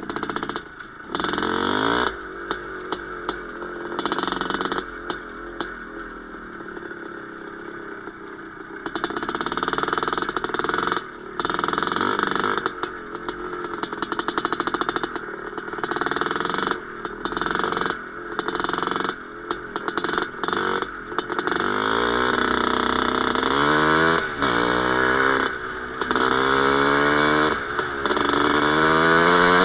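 Two-stroke single-cylinder IZh Planeta Sport engine running in a ČZ 125/516 motorcycle, its sound choppy and uneven at first. In the last several seconds the throttle is opened again and again, each rev rising in pitch.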